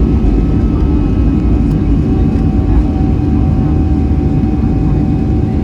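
Boeing 737-400's CFM56 jet engines running steadily, heard from inside the passenger cabin: a dense low rumble with a steady whine over it.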